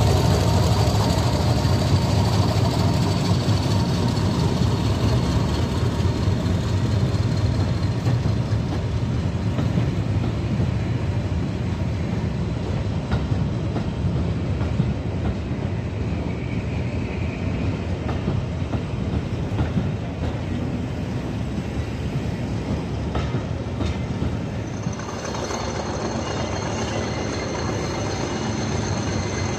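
A diesel-hauled train of passenger coaches rolling past close by, its wheels rumbling and clicking over the rail joints, the sound slowly easing as the coaches go by. About 25 s in it gives way to a quieter steady rumble with a faint high whine.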